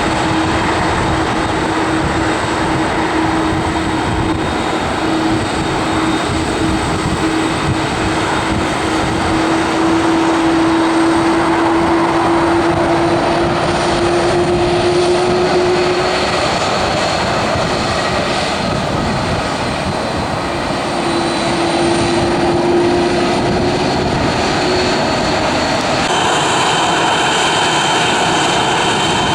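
Jet airliner engines running loud and steady, with whining tones over the noise; one lower whine rises slightly before fading out. The sound changes abruptly about 26 seconds in, as though to another aircraft.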